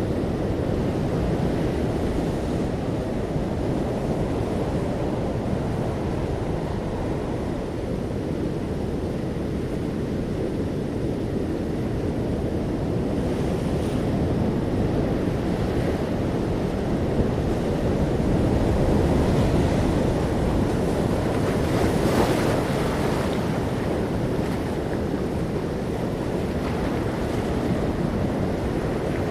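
Ocean waves washing in steadily with wind blowing across the microphone. A louder surge builds about two-thirds of the way through.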